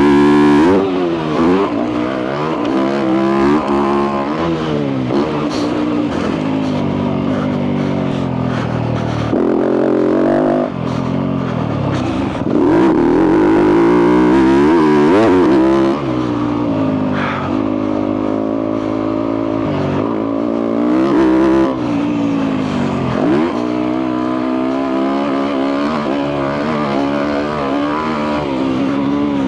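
Yamaha YZ250F four-stroke single-cylinder dirt bike engine with a full FMF exhaust, ridden hard: the revs rise and fall again and again with throttle and gear changes. It is held loud and high for a few seconds about halfway through.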